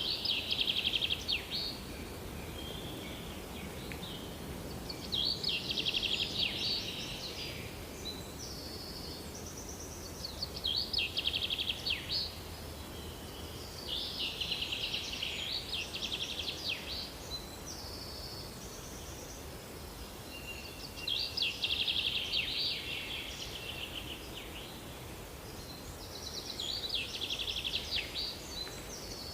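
A songbird singing: phrases of rapid high trills and chirps, each about two seconds long, repeated every four to five seconds over a steady background hiss.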